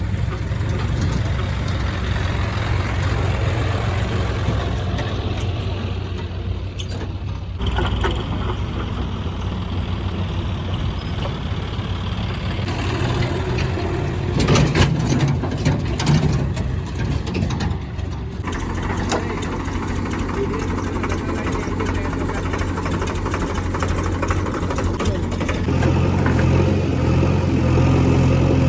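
Diesel engines of a backhoe loader and tractor running steadily, with several knocks about halfway through; the engine note grows louder near the end.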